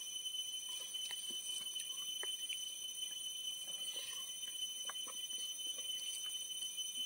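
Mouth sounds of a person eating rice and chicken by hand: chewing with small wet clicks and lip smacks, over a steady high-pitched whine.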